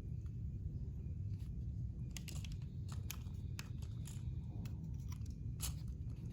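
Sharp irregular clicks of plastic building bricks being handled and snapped together, over a steady low hum.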